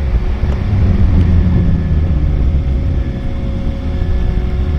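Lamborghini Huracan Performante's V10 engine running loud with a low rumble, its pitch easing down a little between one and two seconds in.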